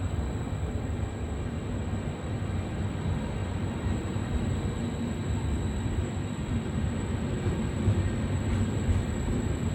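Trenitalia E464 electric locomotive hauling a regional train, a steady mechanical rumble of the locomotive and its train on the rails, with a thin high whine held above it.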